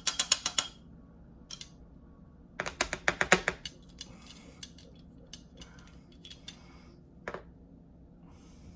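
Utensils clicking and clattering against a plastic food container: two quick bursts of rapid clicks, at the start and about three seconds in, then a few scattered single clicks.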